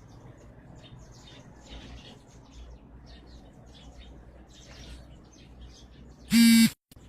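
A flock of sparrows chirping, many short overlapping chirps. About six seconds in, a loud buzzy tone lasts under half a second, and the sound then cuts out briefly.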